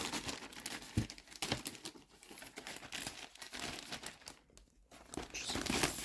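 Packing tape and plastic wrapping being torn and crinkled by hand as a part is pulled out of its packaging. It is a continuous crackle with a couple of knocks about a second in, quieter for a moment, then louder again near the end.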